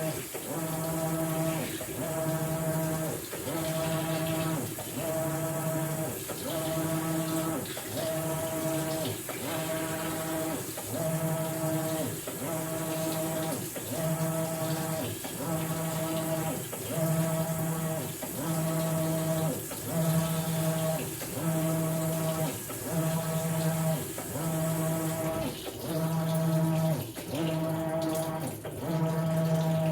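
Maytag Bravos XL washing machine agitating on its bedding cycle: the motor hums in regular strokes, about one every second and a half, each pausing briefly as the drive reverses, over water sloshing in the tub.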